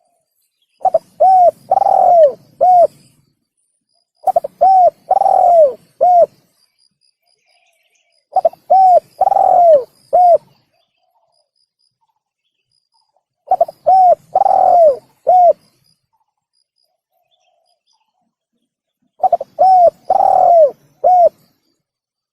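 Spotted dove (tekukur) cooing, a recorded lure call: five identical phrases, each of two short coos, a long falling coo and a final short coo, with silent gaps of several seconds between them.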